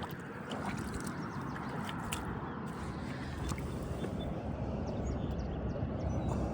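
Shallow river water sloshing and gurgling around legs as someone wades across, a steady wash with small splashes.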